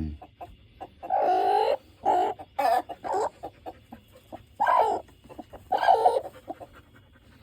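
Chickens clucking, with about six louder, drawn-out calls scattered through and many short clucks between them.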